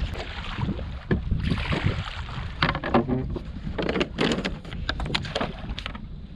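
Canoe paddle strokes splashing in choppy water, in irregular clusters, over a steady low rumble of wind buffeting the microphone.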